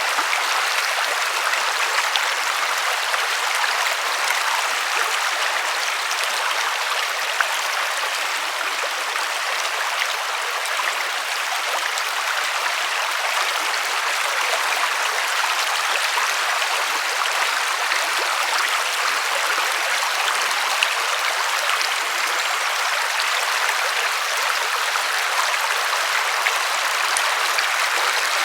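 River water rushing and splashing over stones in a steady, even stream, with small splashes here and there.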